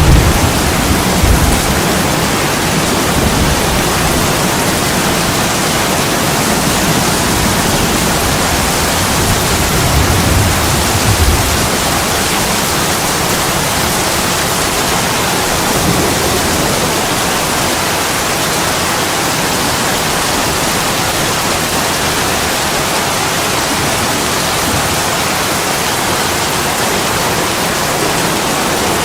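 Steady, heavy rain hiss. Low rumbles of thunder come near the start and again about a third of the way in.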